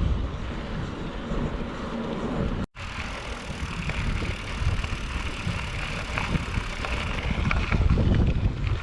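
Wind buffeting the microphone while riding a bicycle, with tyre and road noise underneath. The sound drops out for an instant about two and a half seconds in.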